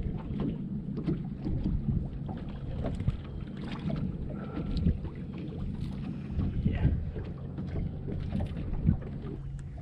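Boat motor running steadily at low trolling speed, a continuous low hum, with scattered light clicks and knocks from handling tackle on board.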